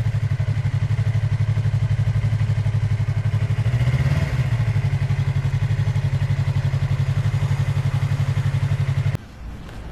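Motorcycle engine running steadily at low revs, with an even pulsing beat and a slight swell about four seconds in. It cuts off abruptly about nine seconds in, leaving a much quieter background.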